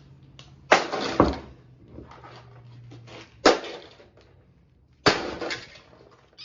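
Four loud crashing impacts as a Farberware single-serve coffee maker's stainless steel and plastic housing is smashed apart. Two come close together about a second in, a third about halfway, and the last near the end, each followed by a short rattle of loose parts.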